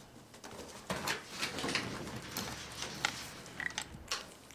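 Close, irregular rustling and scuffling handling noises, with a short high squeak about three and a half seconds in.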